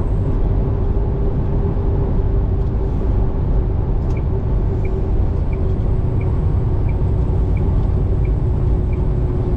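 Steady low engine and road rumble from a truck under way, heard inside the cab, with a steady hum. About four seconds in, a faint, regular tick starts, about three every two seconds.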